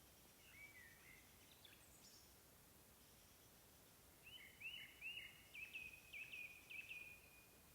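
Faint songbird calls over quiet outdoor background noise. A couple of single notes come first, then about four seconds in a bird sings a quick run of repeated short notes lasting about three seconds.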